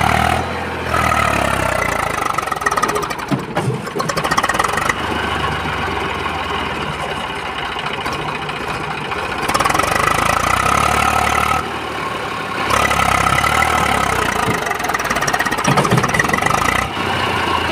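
Tractor engine running and revving, getting louder twice in the second half and easing back in between.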